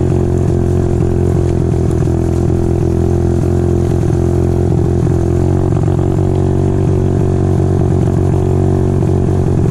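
A 125cc pitbike's single-cylinder engine idling steadily.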